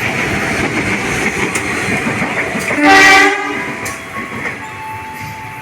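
A long-distance passenger train running past with a steady rumble of wheels on the rails, and one short, loud blast of the locomotive horn about three seconds in.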